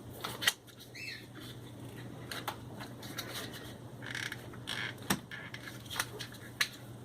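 Handling noises: scattered sharp clicks and taps with light scraping as parts are handled, plus a brief falling squeak about a second in, over a faint steady low hum.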